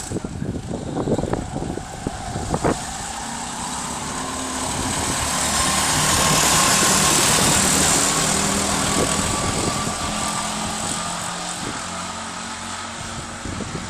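Go-kart engine running, growing louder to a peak about halfway through and then fading as the kart passes by. A few sharp knocks sound in the first three seconds.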